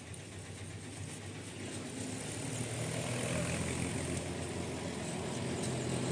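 A steady low mechanical hum, engine-like, growing gradually louder.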